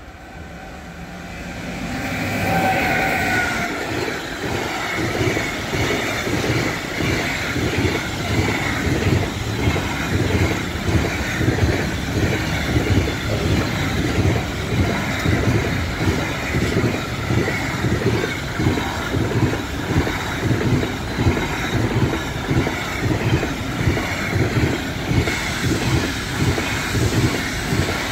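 Electric-hauled container freight train passing close by, growing louder over the first few seconds with a brief high tone as the locomotive goes by. The wagons' wheels then knock over the rail joints in a steady rhythm of roughly two knocks a second.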